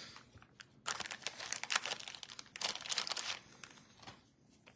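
Trading card pack wrapper crinkling and tearing as it is ripped open, in two rustling stretches with small clicks of card handling between them.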